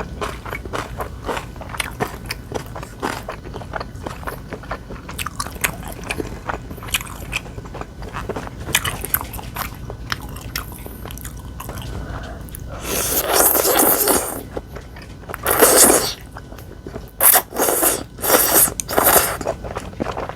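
Close-miked eating: steady chewing with many small crunchy bites and mouth clicks. Several louder, longer bursts of noise come in the last third.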